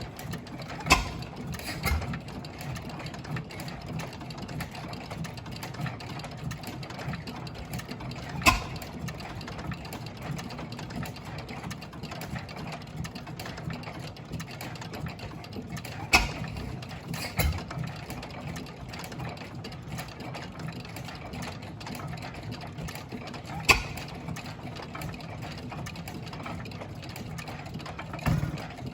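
Old IHC Famous single-cylinder hit-and-miss stationary engines running, with a steady mechanical clatter. A loud, sharp firing bang comes only every several seconds, sometimes two close together, as the governor lets an engine fire.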